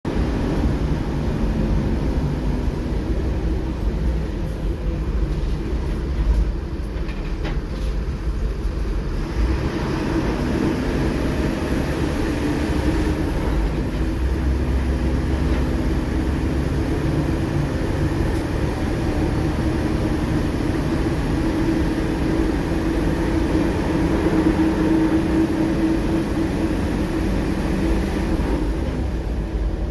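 Cabin noise inside a city bus with a Marcopolo Torino G7 body: steady engine and road rumble as it drives, the engine note rising and falling with changes of speed.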